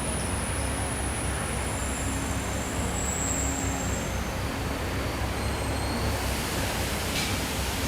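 Car engine running at a steady speed on a chassis dynamometer, with a steady rushing noise over it.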